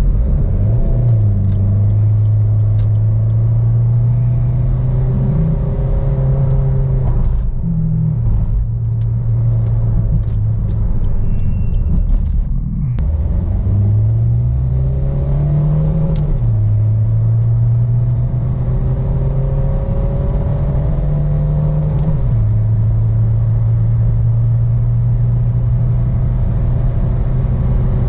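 Maruti Suzuki Baleno's 1.3 DDiS four-cylinder turbodiesel, on a stage 1+ remap, accelerating hard through the gears. The engine note climbs and drops back at each of several upshifts, then holds a steady note near the end.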